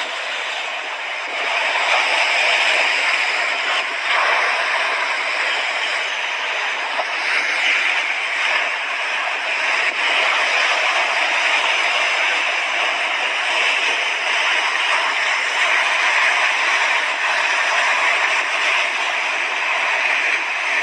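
Mediterranean sea waves washing onto the shore: a continuous rush of surf that swells a little every few seconds.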